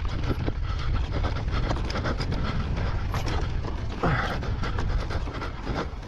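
A cyclist breathing hard, over a steady wind rumble on the microphone from riding. There is a louder heavy breath about four seconds in.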